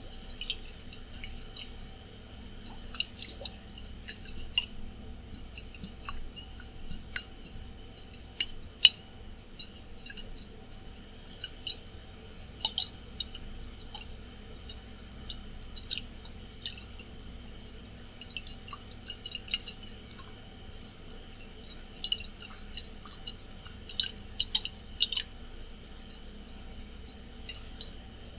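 Water in a glass bottle being handled, with scattered light clicks and glassy taps that ring briefly, over a steady air-conditioner hum.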